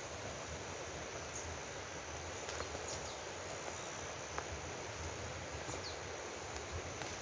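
A mountain stream running steadily, with a steady high-pitched insect drone over it and a few short, falling bird chirps.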